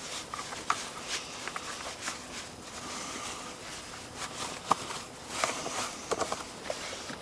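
Cloth rag rubbing and rustling over a small outboard kicker motor, with scattered light clicks and taps from handling its parts.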